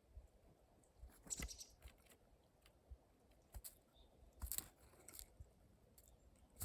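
Faint scattered clicks and short rustling crunches of animals feeding on seed at a feeder, with small bursts about one and a half and four and a half seconds in.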